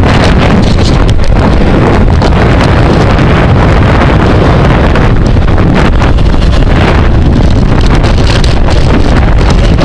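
Loud, steady wind rush buffeting a camera microphone as it moves at bicycle racing speed.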